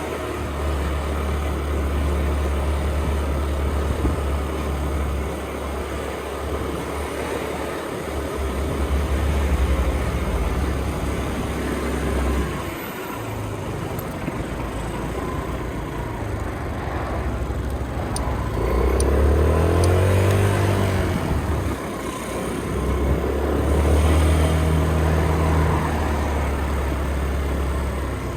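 Motorcycle engine running while riding at low speed, with wind rushing over the microphone. The engine note rises and falls a couple of times in the second half as the bike accelerates.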